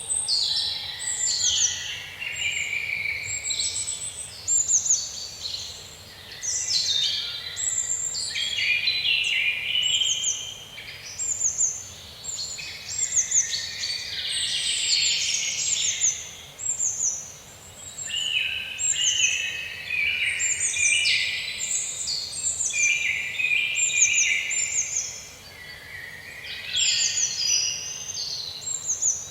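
Several songbirds singing at once in a forest, a dense chorus of short, high chirps and trills, many dropping in pitch, with brief lulls now and then.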